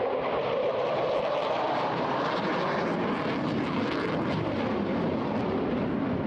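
Eurofighter Typhoon's twin EJ200 turbofans, a steady, dense jet noise from the fighter on a high-speed run.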